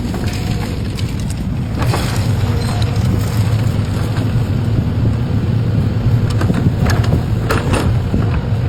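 Heavy diesel engine of a tree-moving machine running steadily with a low rumble, with a few short sharp knocks or creaks about two seconds in and again near the end.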